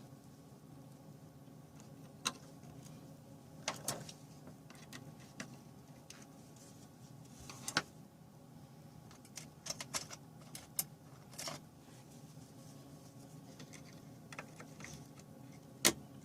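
Small parts and tools being handled in laptop repair work: scattered light clicks and taps, a few in quick clusters, with the sharpest near the end, over a steady low hum.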